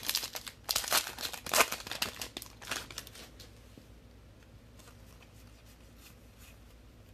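A trading-card pack's wrapper crinkling and rustling as it is handled and torn open, in a quick run of crackles that dies down after about three seconds to a few faint ticks.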